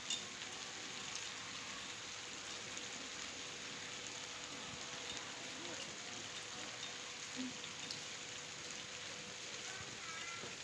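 Gentle rain falling steadily: an even hiss of drops, with one sharper tap just after the start and a few fainter ticks.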